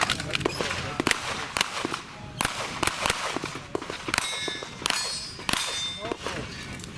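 A string of handgun shots, roughly one every half second, with steel targets clanging and ringing as they are hit.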